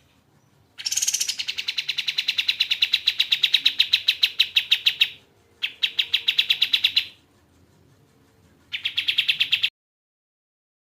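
Kapas tembak bird singing: a fast run of sharp, evenly repeated notes, about nine a second. It comes in three bouts: a long one of about four seconds, a shorter one, and a brief one near the end.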